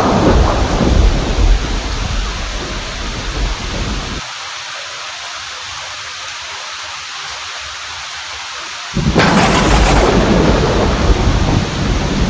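Heavy rain with thunder: a low rumble of thunder fades out about a third of the way in, leaving the steady hiss of rain, then a sudden loud thunderclap about three quarters in rumbles on to the end.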